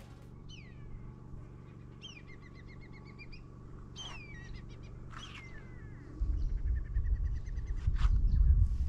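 Birds calling: clear whistled notes that slide down in pitch, several times over, some followed by runs of quick repeated notes. About six seconds in, a loud low rumble of wind buffeting the microphone comes in and covers the lower sound.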